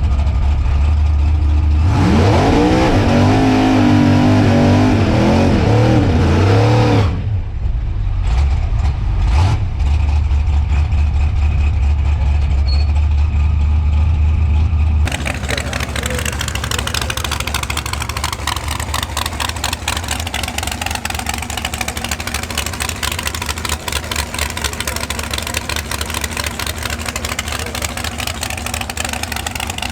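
Drag race car engine revving hard: its pitch climbs and wavers for a few seconds under a heavy rumble, then drops back. About halfway through, the sound changes suddenly to a rougher, buzzing engine note that runs on steadily.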